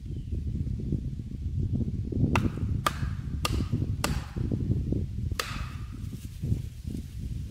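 Five sharp strikes of a tool on wood, the first four about half a second apart and the last a little over a second later, each with a brief ring. A steady low rumble lies under them.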